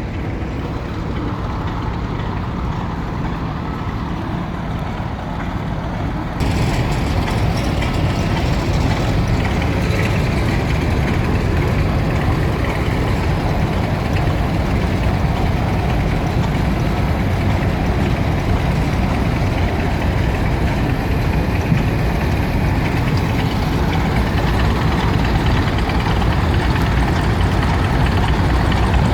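Tractor engines running steadily, with a sudden step up in loudness about six seconds in.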